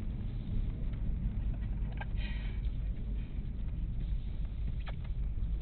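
Car running at low speed after an autocross run, a steady low rumble. There are a couple of faint clicks, about two seconds in and again near five seconds.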